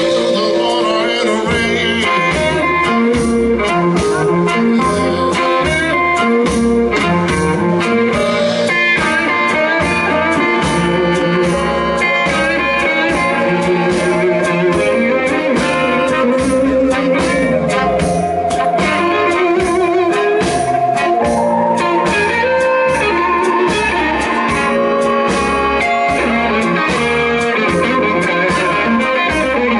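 Live blues-rock band playing an instrumental break between vocal lines, with a steady drum beat under guitar and other melodic instruments.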